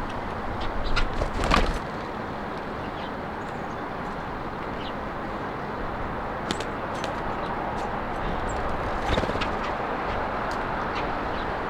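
Steady hum of road traffic, with a brief louder rush about a second and a half in and scattered short chirps of small birds at the feeder.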